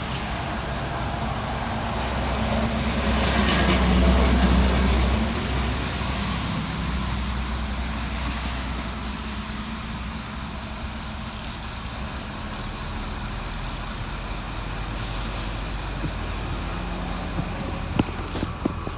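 Heavy diesel earthmoving machinery running: a steady low engine drone that swells louder with a hiss around four seconds in, then settles back. A few short knocks come near the end.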